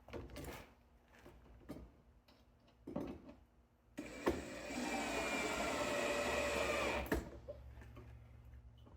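A few handling knocks, then a small electric power tool runs under load for about three seconds, its pitch sagging slightly, and stops abruptly.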